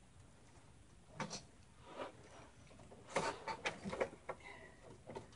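Soft handling noises as computer cables and a plastic cable tie are worked by hand: a couple of isolated clicks, then a cluster of quick ticks about three seconds in.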